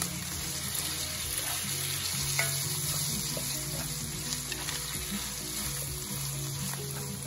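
Shredded chicken and onion sizzling steadily in hot oil in a pan, stirred and turned with a spatula.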